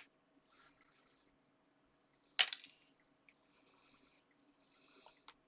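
Quiet papercraft handling: soft rustles of card and paper, and one sharp click of a small hard object about two and a half seconds in.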